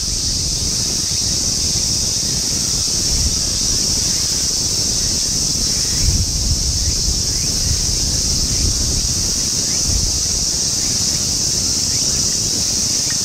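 Wind rumbling on the microphone, with a steady high-pitched hiss held above it and a few faint bird chirps.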